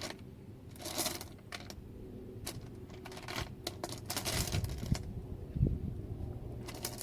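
Small stones and crystals being handled and set down by hand: a run of light clicks and brief rustling, with a low thump a little past halfway.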